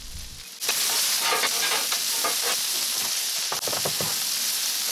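Sliced ribeye steak and chopped onions sizzling on a hot flat-top griddle. The sizzle starts abruptly about half a second in, then holds steady with many small crackles and spatters.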